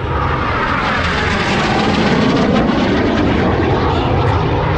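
Aermacchi MB-339 jet aircraft passing by loudly, a steady jet rush with a whine that falls in pitch over the first second or so as it goes past.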